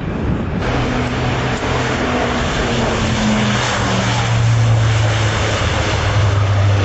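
Propeller-driven aircraft flying past with a steady engine and propeller drone over a rushing noise. Its tone drops in pitch about halfway through as it passes.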